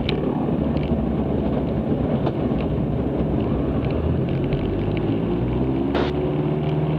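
Cessna 162 Skycatcher's Continental O-200 four-cylinder engine and propeller droning steadily in flight, heard from inside the cabin, with a short click about six seconds in.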